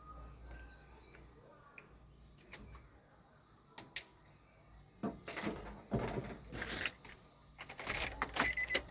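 A couple of sharp clicks, then from about five seconds in a busy run of irregular scraping, rattling and knocking of metal parts and tools being handled at an opened car door.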